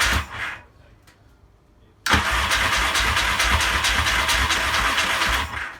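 Yamaha XS650 parallel-twin engine being turned over on its electric starter without catching: a short crank that stops, a pause, then a longer crank of about three and a half seconds. The owner says the starter gear still isn't quite right.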